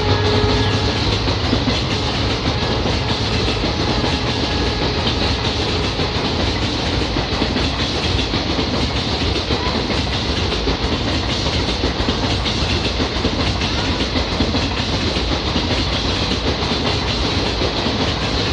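Passenger train coaches rolling past, wheels clattering over the rail joints amid a steady rushing noise.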